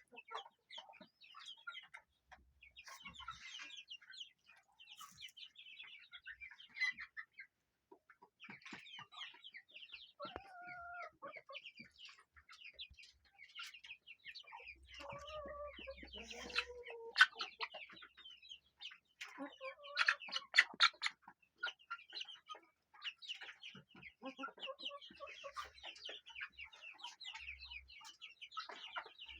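A flock of chickens clucking, with many short calls throughout and a few longer, louder calls near the middle.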